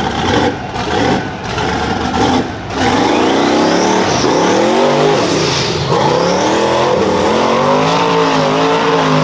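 Twin-turbocharged LS V8 engine of a swamp buggy under hard throttle in mud. It runs choppy and broken for about three seconds, then goes loud and steady with the revs repeatedly rising and falling.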